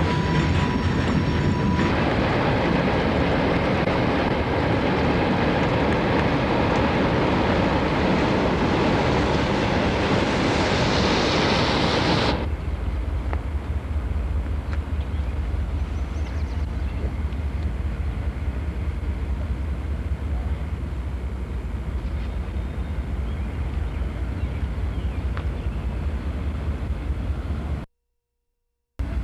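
Freight train passing, with steady rail and wheel noise; a steady high tone sounds for about the first two seconds, and the noise brightens just before it stops abruptly about twelve seconds in. A lower, steadier rumble follows, broken by about a second of silence near the end.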